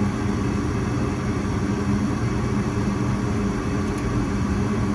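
Goodman gas furnace running steadily with its burners lit and the blower on, a constant low hum and rumble. The burners are staying lit now that the flame rod has been cleaned.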